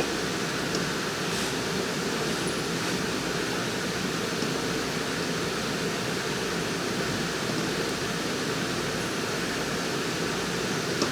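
Steady, even rushing noise with no change in level, and a few faint clicks in the first three seconds.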